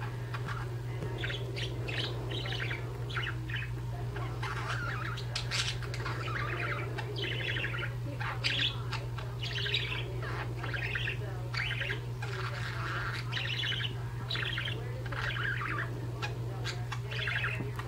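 Two budgerigars chirping and chattering in a continuous stream of short, quick calls, over a steady low hum.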